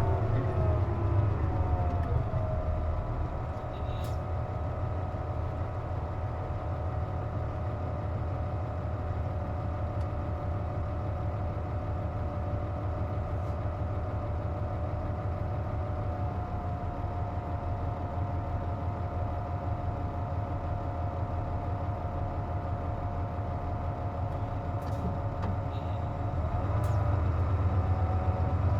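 Interior of a Nissan Diesel KC-JP250NTN route bus. The bus slows with a falling whine, then idles with a steady, multi-tone whine and low engine drone, and near the end pulls away with the whine rising again. The uploader attributes the bus's odd whining noise to the air conditioning running.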